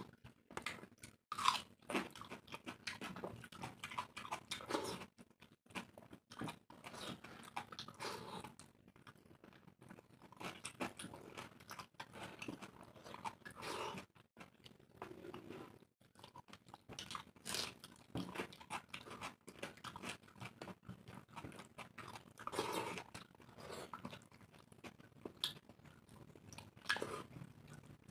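Close-up eating sounds of two people eating dal khichdi by hand: irregular chewing and mouth sounds, with fingers mixing the soft rice and lentils on steel plates.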